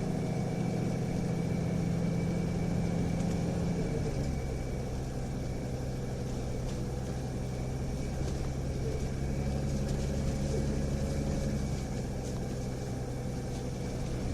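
Interior running sound of a Nissan Diesel UA272 city bus with a ZF Ecomat four-speed automatic: a steady diesel drone whose pitch steps down about four seconds in, as when the gearbox shifts up, then runs on steadily. The uploader judges this bus an off-sounding example, its upshifts held to high revs, a trait he links to torque-converter slip.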